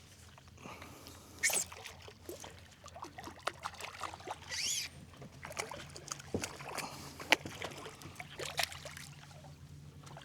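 Shallow water splashing and sloshing in short irregular bursts, with scattered small knocks and clicks over a low steady hum, and a brief high chirp about four and a half seconds in.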